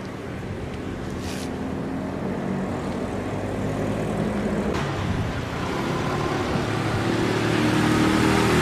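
Motorbike engine running steadily under a broad rush of wind and road noise, getting gradually louder.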